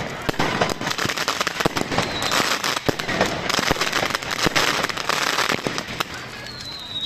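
Fireworks going off in a rapid, continuous barrage of sharp bangs and pops. Denser crackling runs through the middle, and short high whistles come about two seconds in and near the end.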